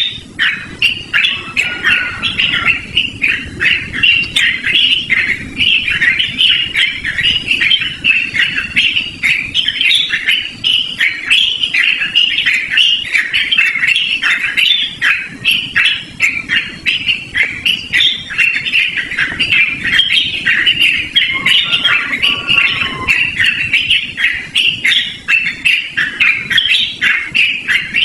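Yellow-vented bulbul singing in a long unbroken run of rapid, loud, chattering phrases. A lower, falling call joins briefly a little past the three-quarter mark.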